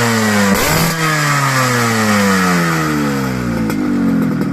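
Motorcycle engine breathing through a DNK Racing full-chrome 'Cobra' underslung aftermarket muffler, revved with a quick throttle blip about a second in. The revs then fall away slowly in a long descending pitch and settle to a pulsing idle near the end.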